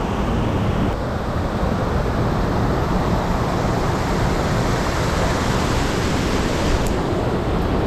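Rushing mountain-stream water, a steady hiss.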